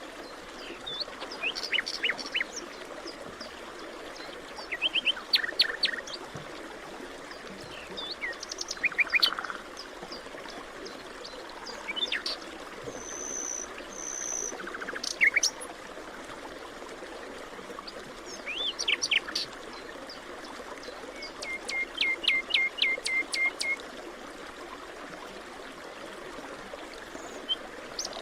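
Several wild birds calling and singing in short scattered phrases of chirps and quick trills, with a run of about ten even, rapid notes near the end, over a steady background hiss.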